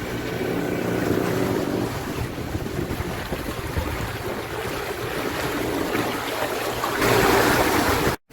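Wind and sea rushing past a sailing yacht under way, with wind buffeting the microphone. About seven seconds in a louder rush of water or wind comes in, then the sound cuts off abruptly.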